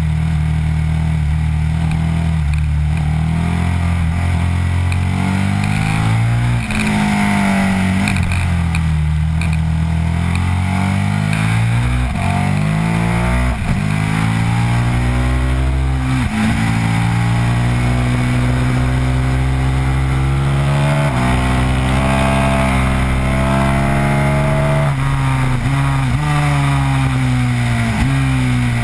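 Sport motorcycle engine at hard throttle on a track lap, heard from on the bike: its pitch climbs, breaks off at each gear change and drops again for the corners, over and over. Wind rush sits under the engine.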